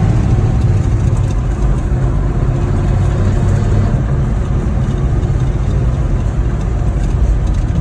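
Old Ford F-Series pickup driving, its engine running steadily with road noise, heard from inside the cab.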